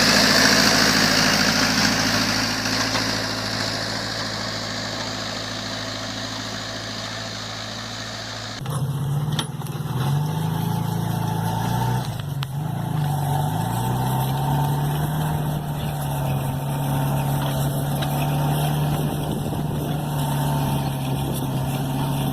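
Small tractor engines running. About eight seconds in the sound changes abruptly to another engine, whose pitch wavers up and down for a few seconds before settling to a steady run.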